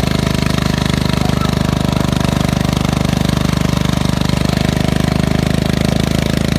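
Tractor engine running steadily and loud, with a rapid, even pulsing.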